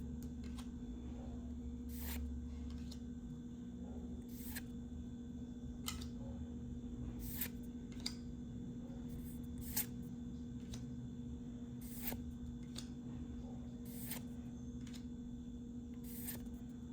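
Yu-Gi-Oh trading cards handled one at a time as a booster pack is gone through, each card giving a short crisp flick or snap about every one to two seconds, over a steady low electrical hum.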